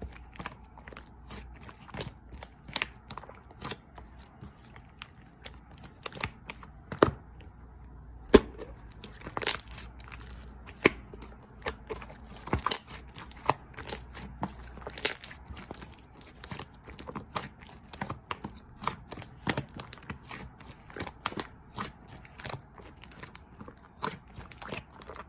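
Pink slime being squished, stretched and folded by hand, giving many irregular sharp pops and clicks, several a second, with a couple of louder pops about seven and eight and a half seconds in.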